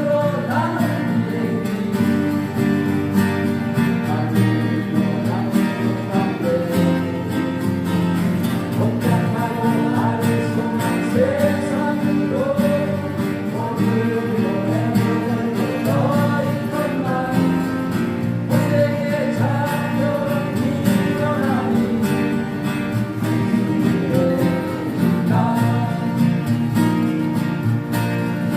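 Acoustic guitars strumming and playing a song, with a voice singing the melody over them.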